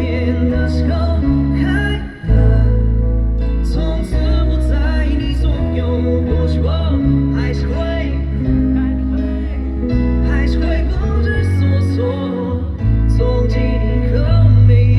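Live pop ballad performance: a male singer's vocal over guitar, sustained chords and a heavy bass line, with a brief drop in loudness about two seconds in.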